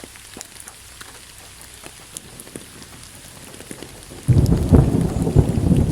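Steady rain with scattered drops ticking, then a loud crackling thunderclap breaking about four seconds in and rumbling on.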